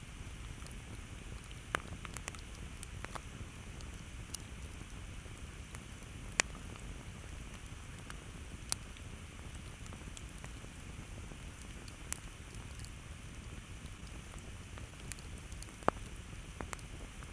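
Campfire crackling: scattered sharp pops and snaps of burning wood over a low, steady rumble of flame, with the loudest pops about six seconds in and near the end.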